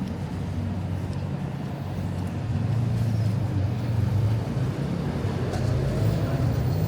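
Street traffic with a vehicle engine running close by, its low drone getting louder about two and a half seconds in.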